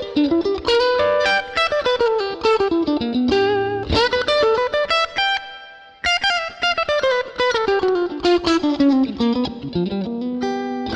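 Electric guitar played through a Fractal Audio FM9 amp modeler's factory preset, recorded direct from the unit. It plays two long descending runs of fast single notes, each stepping down from high to low, with a brief break about six seconds in.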